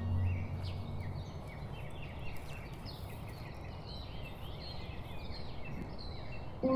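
Several small birds chirping and calling in quick, overlapping notes, over a steady outdoor background hiss.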